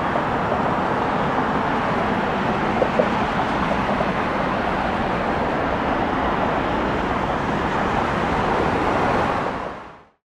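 Jet airliner engine noise, a steady loud rush that fades out to silence about nine and a half seconds in.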